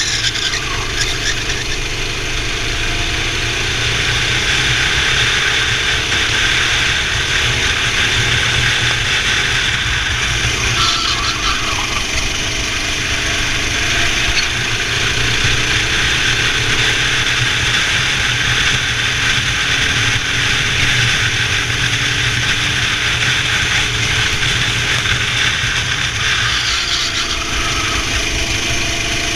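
Racing kart engine running hard, its pitch rising and falling again and again as the kart accelerates and lifts through the corners, over a constant rush of wind and tyre noise.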